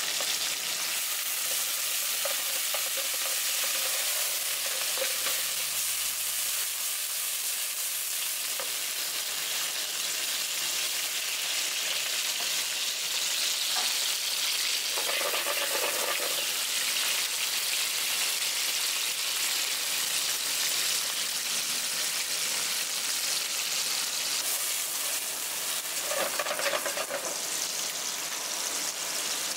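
Japanese freshwater crabs (sawagani) and cut green vegetables sizzling in hot oil in a frying pan, a steady hiss. There are two brief louder sounds, about halfway through and near the end.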